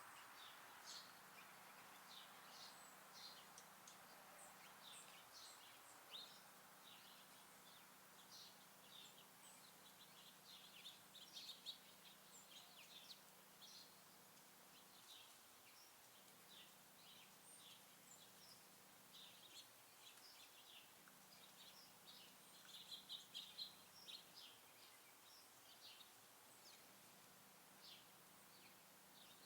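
Small songbirds at a feeder chirping faintly, many short high chirps coming steadily, with a busier cluster about three quarters of the way through.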